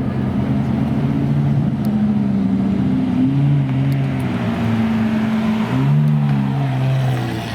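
Several supercar engines running at once at low revs, their overlapping notes stepping up and down as they are blipped and eased.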